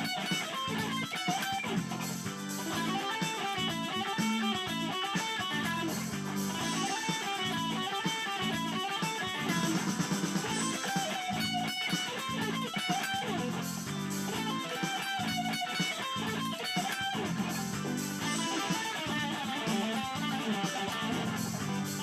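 Instrumental music led by electric guitar, playing repeating melodic phrases over bass notes.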